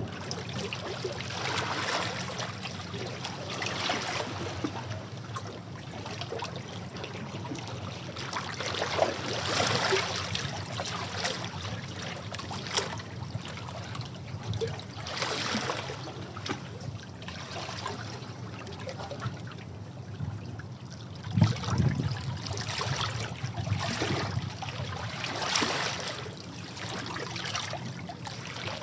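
Sea water washing and splashing against rocks, with irregular surges every second or two and a heavier wash about three quarters of the way through.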